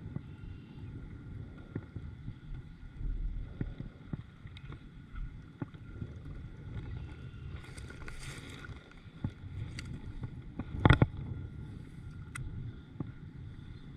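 Low, steady rumble of wind on the microphone and water around a kayak, with scattered light clicks and a brief hiss. A single sharp knock about eleven seconds in is the loudest sound.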